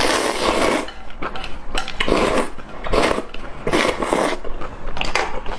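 A person chewing spicy enoki mushrooms, the wet chewing noises coming in repeated bursts about once a second.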